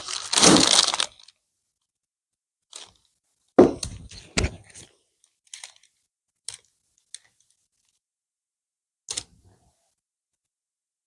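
Hand work at a workbench: a brief rustling, tearing burst, then scattered light knocks and clicks of parts being handled.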